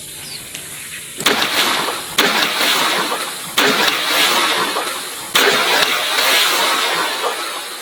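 An air pump inflating a toy in repeated surges of rushing air. Each surge starts suddenly and fades over a second or two, four times in a row.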